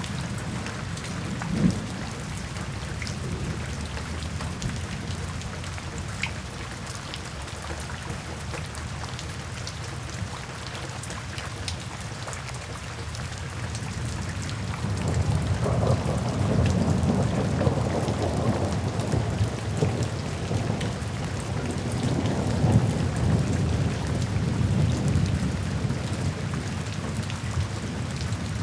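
Steady rain falling, with scattered individual drops ticking. About halfway through, a low rolling rumble of thunder builds and carries on to the end.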